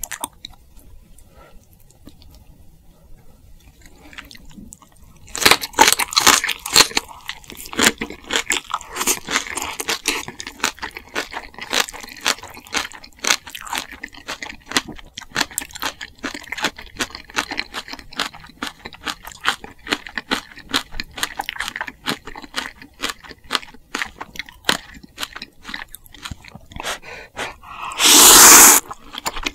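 Close-miked chewing and crunching of food, a thick run of rapid wet crackles that starts about five seconds in after a quiet opening. A brief, much louder rushing sound comes near the end.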